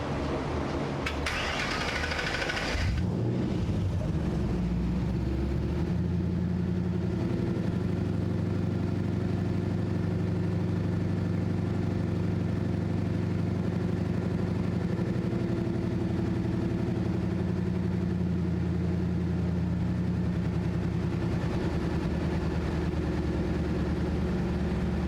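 The '52 Ford truck's engine starting: a short noisy burst of cranking, the engine catching about three seconds in, then settling into a steady idle.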